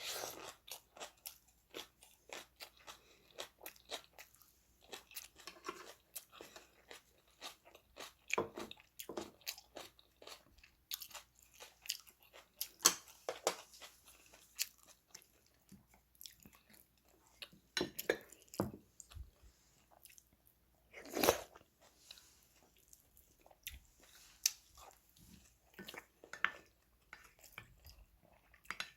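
A person eating: chewing and mouth sounds with many irregular short clicks and smacks.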